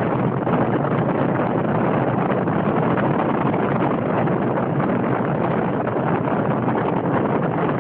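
Steady rushing wind and road noise of a moving vehicle, an even hiss with no engine tone or knocks standing out.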